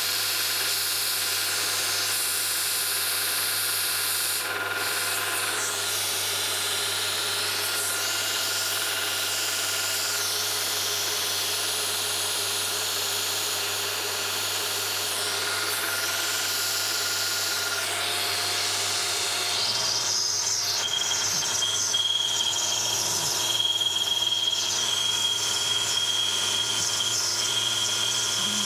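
A power tool running continuously with an abrasive rubbing, grinding sound. About 20 seconds in the sound changes and a steady high-pitched whine joins it.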